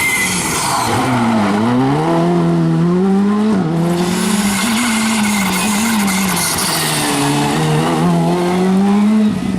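Rally car engine revving hard. Its pitch drops about a second in, then climbs again in steps as it changes gear, with a sudden cut just before the end. Tyre squeal comes and goes.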